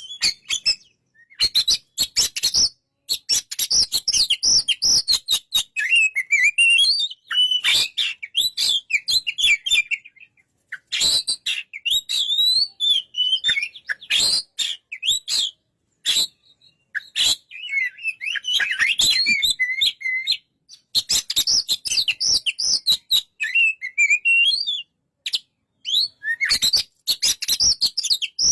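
Oriental magpie-robin (kacer) singing: varied, fast-changing whistled phrases mixed with sharp clicks, broken by a couple of short pauses.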